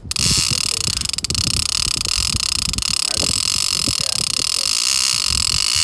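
Heavy conventional fishing reel giving line under load, its drag and clicker making a steady, continuous buzz as the shark pulls line off. Wind buffets the microphone under it.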